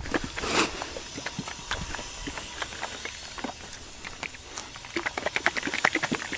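A short hiss of a spray about half a second in, then irregular small clicks and taps from handling glass-cleaning products and wiping the windshield glass, growing busier near the end.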